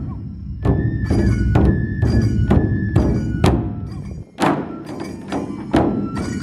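Matsue dō festival drums beaten in a steady rhythm, about two to three strokes a second, with a bamboo flute holding high notes over them. The beat breaks off briefly about four seconds in, then picks up again.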